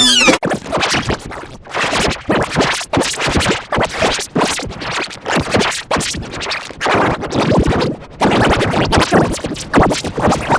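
Loud, distorted audio effect: the film clip's soundtrack rapidly chopped and stuttered into scratch-like fragments.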